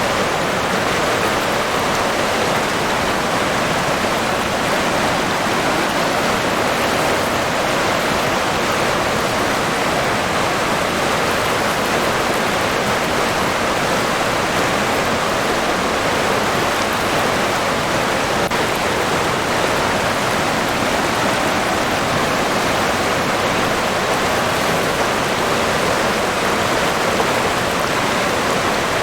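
River water rushing and splashing steadily, a constant even hiss with no changes.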